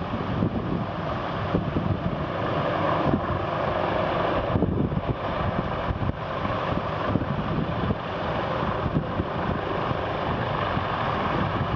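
Wind buffeting the microphone in irregular gusts over a steady mechanical drone.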